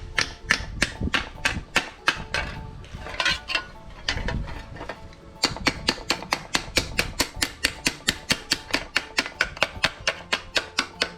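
Hammer tapping steel sheet to shape a patch panel, rapid even strikes about three or four a second with a faint metallic ring. The strikes turn looser and scrapier for a few seconds before settling back into a steady rhythm.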